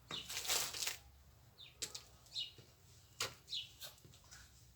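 A brief rustle in the first second, then a few short, high chirps of small birds spread through the rest, with a couple of faint clicks.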